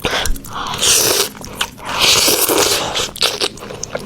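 Close-miked crunching bites into crispy fried chicken wings, with two bursts of loud crackly crunching.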